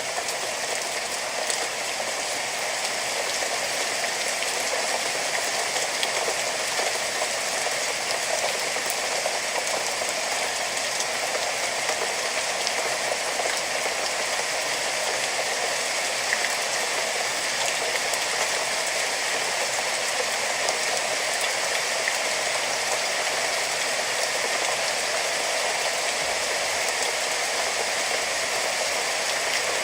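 Steady rainfall, an even hiss of rain with faint scattered drop ticks on a surface.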